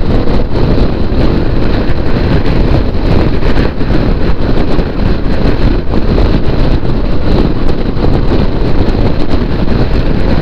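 Wind buffeting the microphone of a motorcycle rider at road speed: a really loud, constant rushing noise that covers everything else.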